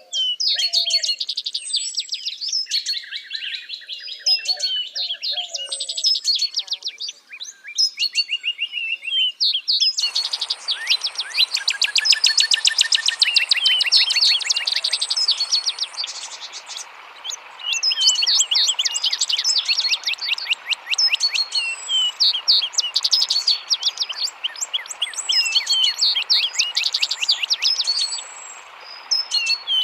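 A chorus of small songbirds chirping and singing in quick, overlapping calls. About ten seconds in, the steady rush of running water joins the birdsong, and a thin high steady tone sounds for several seconds.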